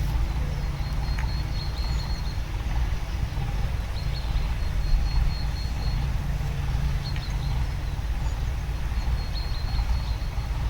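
Outdoor ambience: a steady low rumble, with a high thin chirping call repeated in short runs several times.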